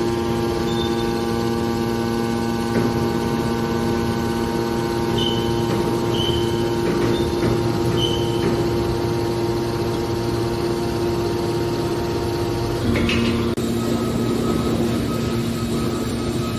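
Hydraulic can baler running with a steady hum. Four short high squeaks come a few seconds in, and about two-thirds of the way through a clunk sounds and the hum changes pitch.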